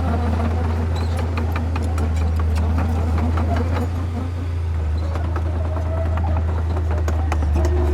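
Heavy diesel construction machinery running steadily with a low, even drone, with many short clanks and rattles scattered over it.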